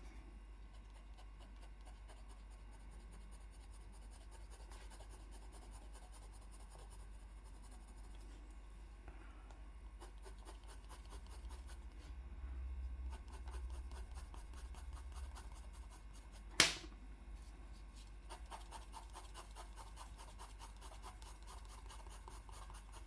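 Faint, quick scratching of drawing strokes on paper as an area is shaded in, with one sharp click about two-thirds of the way through. A steady low hum runs underneath.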